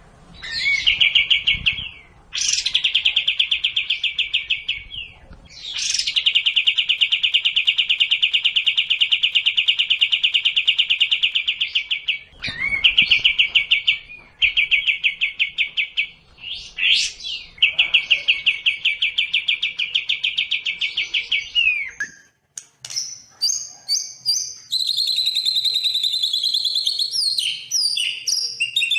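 Recorded songbird song: a series of long, fast, rattling trills, each opening with a quick rising note, with short breaks between them. About two thirds of the way in it changes to a varied run of high whistles and chirps.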